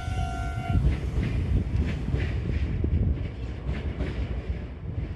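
Japanese level-crossing warning bell ringing its repeated kan-kan tone, which stops about a second in. A Meitetsu train runs past under it with a low rumble and several wheel clacks over the rail joints, fading toward the end.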